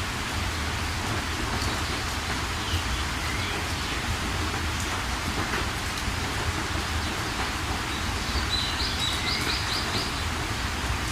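Steady rain falling, with birds calling over it; near the end a bird gives a quick run of short chirps.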